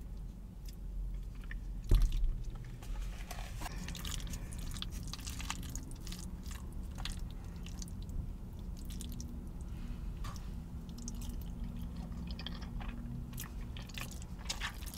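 Close-up chewing of soft mac and cheese, with small wet mouth clicks and light fork taps. A single sharp knock about two seconds in is the loudest sound.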